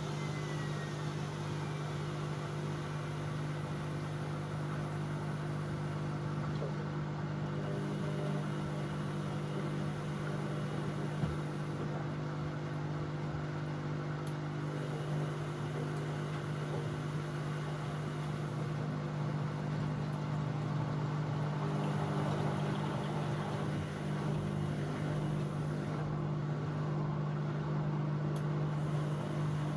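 Bauknecht WA Aquaton 1400 front-loading washing machine running steadily partway through a 60 °C cottons wash cycle, a constant motor hum with one short click about a third of the way in.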